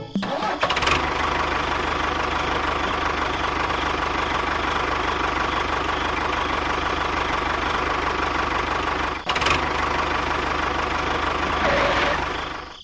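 A small electric motor running steadily with a buzzing hum. It dips briefly about nine seconds in, then fades out near the end.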